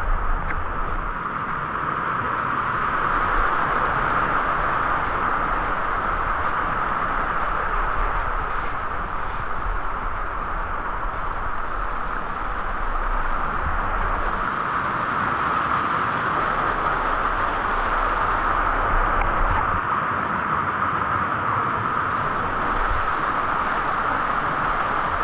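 Waterfall rushing steadily, a constant hiss of falling and splashing water, with an uneven low rumble that comes and goes underneath.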